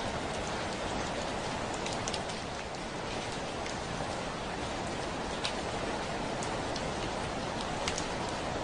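Steady rain hissing, with a few sharper single drops ticking against a window pane.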